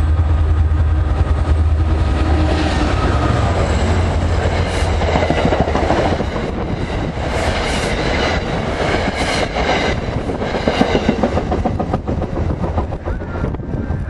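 A Metro-North train led by a GP40FH-2 diesel locomotive passing close by. A deep diesel engine drone gives way after a couple of seconds to the rattle and clickety-clack of the passenger cars' wheels over the rails, easing a little near the end.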